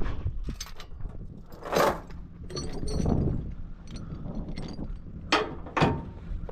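Scattered metal clanks and rattles, the loudest about two seconds in and two sharp ones near the end, over a steady low engine hum.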